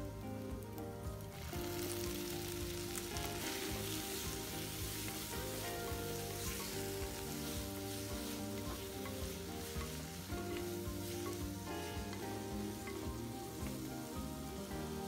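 Shallots, green chillies and chopped tomatoes frying in hot oil in a clay pot, sizzling steadily as they are stirred with a wooden spatula. The sizzle grows much louder about a second in.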